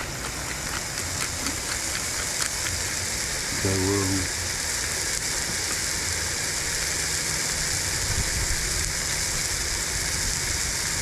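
Hamburger patties frying, a steady sizzling hiss.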